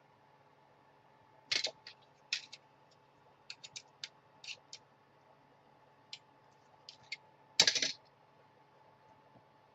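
Scattered sharp clicks and taps from handling a LiPo battery's hard plastic case and small tools, with a louder clatter about eight seconds in.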